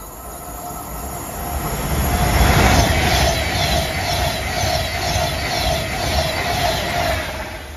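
An Avanti West Coast Class 390 Pendolino electric train passing through the station at speed: a rush of wheels on rail that builds to its loudest about two and a half seconds in, with a steady whine and a regular clatter, then fades near the end.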